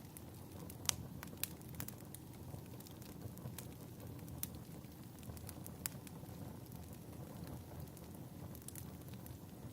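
Fireplace crackling: irregular sharp pops and snaps over a steady low rumble of burning logs.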